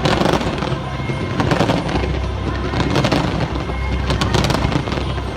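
Fireworks bursting in quick succession over the show's loud soundtrack music, with many sharp bangs and crackles throughout and a strong burst right at the start.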